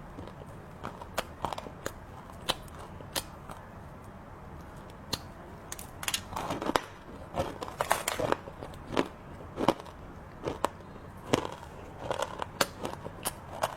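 Close-miked biting and chewing of hard, crunchy chocolate snacks: irregular sharp crunches, coming thick and fast in a run near the middle and again near the end.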